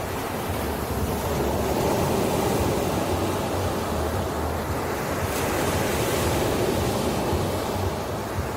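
Ocean surf: waves breaking and washing ashore in a steady rushing hiss that swells and eases off twice, over a low rumble.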